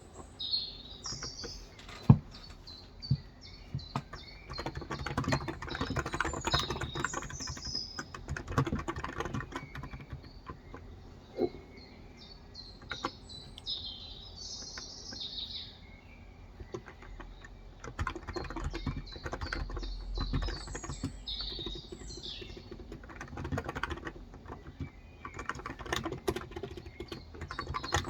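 Typing on a Cox Endeavor tenkeyless keyboard with 35 g electro-capacitive switches: key clicks in runs of a few seconds, separated by short pauses. Birds chirp throughout.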